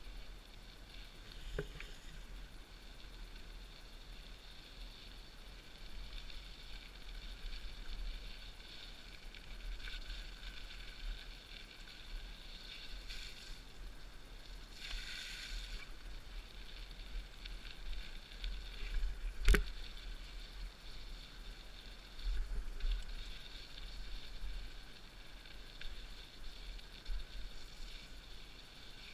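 Mountain bike riding along a dirt trail: steady tyre and drivetrain noise over a constant low rumble, with one sharp knock about twenty seconds in.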